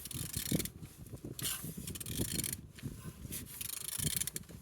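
Nissan QG18DE four-cylinder engine being turned over by hand, with irregular rubbing and clicking as the crankshaft and internals rotate. It turns freely, a sign the engine is not seized.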